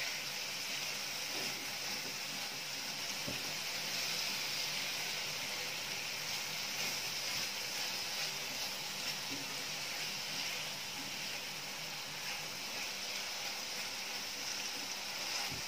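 Pumpkin pieces sizzling steadily in a little oil in a stainless steel pan as a silicone spatula stirs them; they are nearly cooked through, softening in their own moisture without added water.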